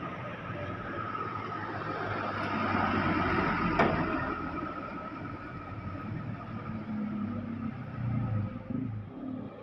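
Box truck passing on the road: its engine and tyre noise build to a peak about three and a half seconds in, then fade away, with one sharp click as it goes by.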